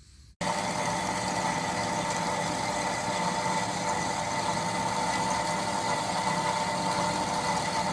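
Metal-cutting bandsaw running steadily, cutting off a freshly threaded steel stud: an even machine hum with a fixed whine over a hiss, which starts abruptly about half a second in.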